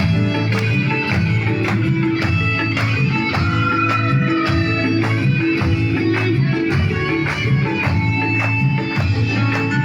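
Instrumental interlude of a recorded backing track: plucked guitar and melody instruments over a steady percussion beat, with no singing.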